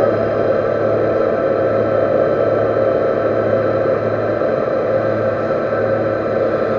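Metal lathe running steadily with a grooving tool cutting: a constant motor hum with several steady higher tones over the noise of the cut.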